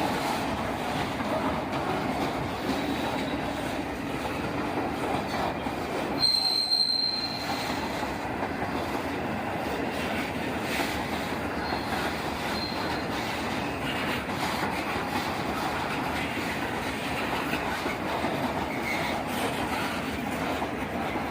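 A train rolling past on the rails with a steady rumble, and a brief high-pitched wheel squeal about six seconds in, with a fainter squeal later on.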